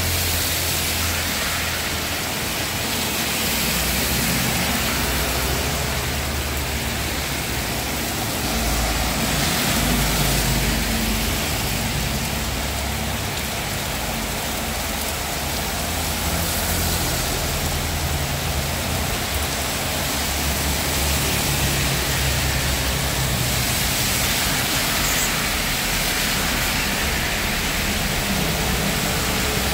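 Heavy rain falling, a steady hiss, with an uneven low rumble underneath.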